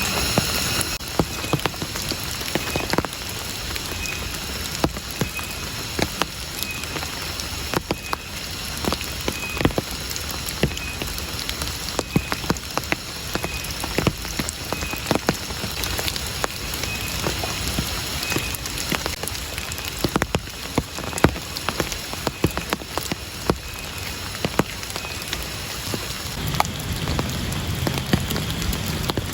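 Steady rain falling, with frequent sharp, irregular taps of heavy drops striking a surface.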